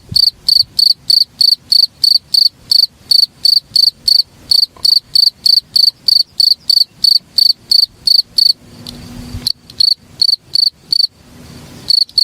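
A singing insect, a cricket or katydid, chirping in a steady rhythm of about three to four high-pitched pulses a second, breaking off briefly twice in the second half.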